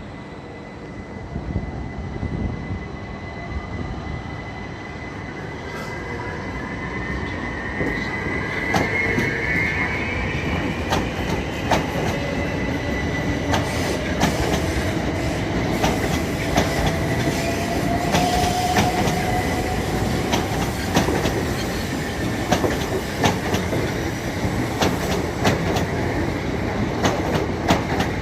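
A train running along the rails at a station, growing louder over the first several seconds and then holding. Its wheels squeal in drawn-out gliding tones over a steady rumble, with many sharp clicks and clacks over the rail joints.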